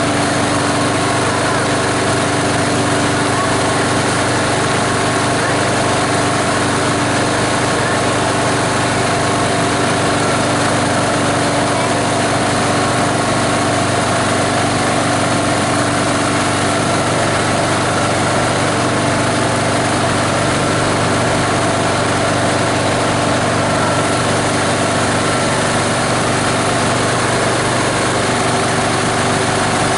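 A plastic grinder's 18 HP diesel engine running steadily and loudly, an even drone that does not change.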